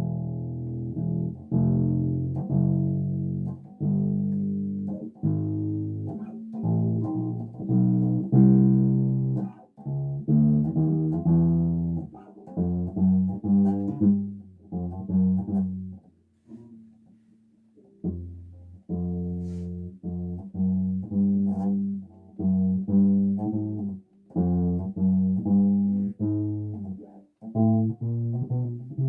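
Bass guitar played solo: phrases of low plucked notes, with a pause of about two seconds midway and a shorter one near the end.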